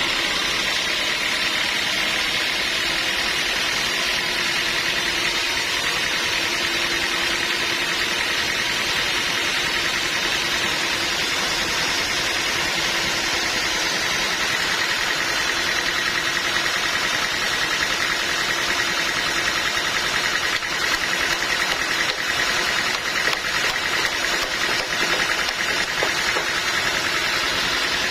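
Sawmill machinery running steadily: a constant mechanical whine over an even hiss, growing a little rougher toward the end.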